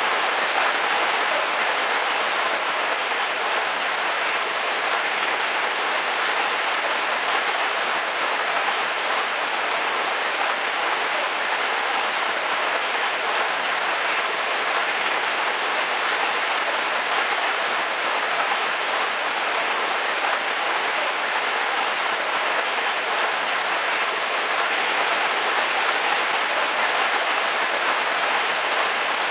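Heavy rain drumming steadily on the roof of a camping car, heard from inside: an even, unbroken patter of drops with no let-up.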